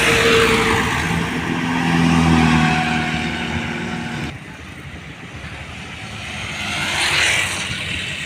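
Heavy road vehicles passing close by: one goes past at the start and its engine drone fades away, then the sound cuts off abruptly about four seconds in and another vehicle approaches and passes about seven seconds in.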